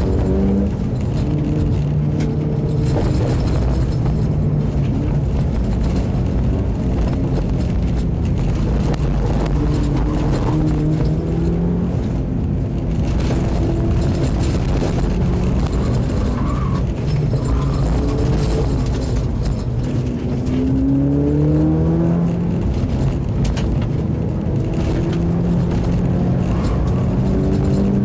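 Mitsubishi Lancer Evolution IX's turbocharged 2.0-litre four-cylinder heard from inside the cabin, its note rising in pitch and dropping several times as the car is driven hard through an autocross course. Under it runs a steady rumble of tyres on dirt and gravel.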